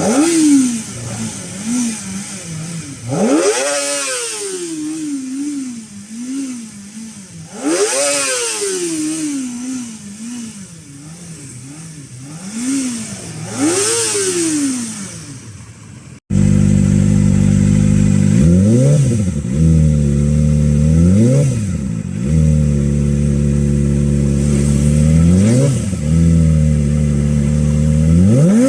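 Kawasaki ZX25R's 250 cc inline-four engine revved in repeated blips, pitch sweeping up and falling back to idle between them. About 16 seconds in the sound cuts to a second, louder recording with a steady deep idle and more quick blips, as from a different exhaust.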